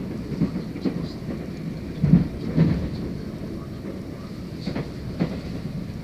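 Passenger train running along the line, heard from inside the carriage: a steady low rumble with short wheel knocks over rail joints, coming in pairs about half a second apart, three times.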